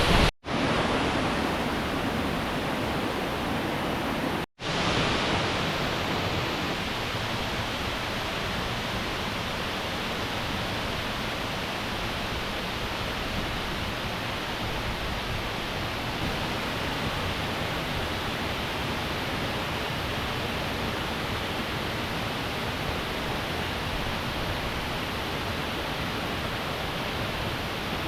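Steady rush of water falling and running over rocks at a waterfall, broken by two split-second gaps near the start.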